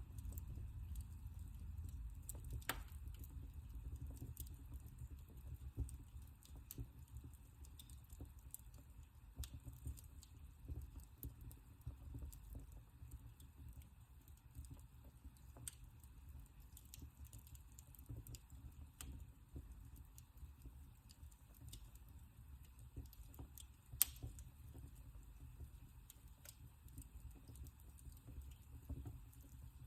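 Wood fire crackling in a fireplace: faint, scattered pops and clicks over a low rumble, with a sharper pop about 24 seconds in.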